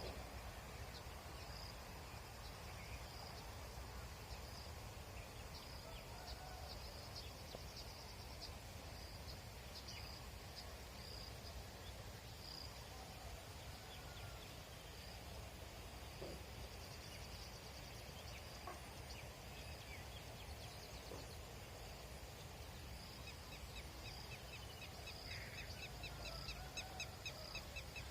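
Birds calling: short high chirps repeating throughout, and a fast trilled run of notes near the end, over a steady low rumble.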